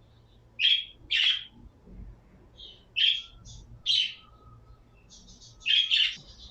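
Pet birds calling: about six short, loud calls, some in quick pairs, with a faint rapid twittering starting near the end.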